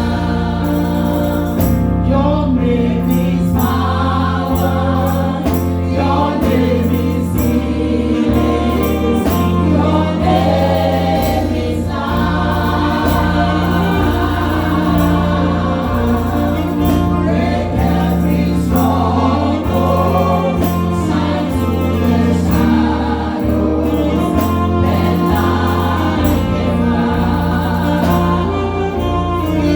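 Gospel choir singing praise music over a band, with a strong bass line that changes note every second or two and cymbal hits.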